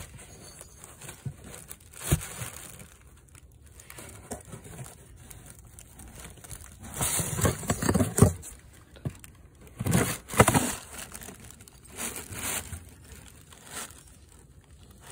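Old viscous fan clutch from a Toyota Land Cruiser 200 turned and handled by hand, giving irregular bursts of rubbing and scraping noise, loudest about halfway through and again a little later, with at most a faint squeak. The clutch is stiff to turn.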